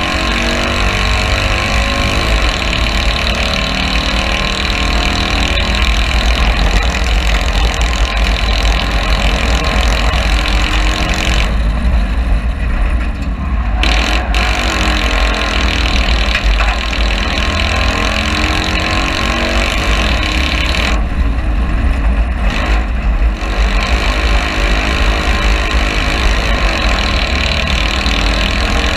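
Citroën 2CV cross car's air-cooled flat-twin engine working hard, heard from inside the cabin, its pitch rising and falling as the car accelerates and lifts off between corners, over a heavy low rumble. Twice, about twelve and twenty-one seconds in, the sound turns duller for a couple of seconds.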